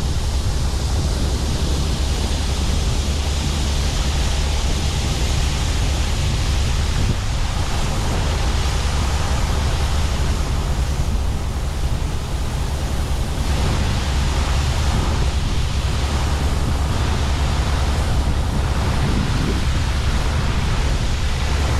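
Steady low rumble of heavy farm machinery running under a loud, even rushing noise.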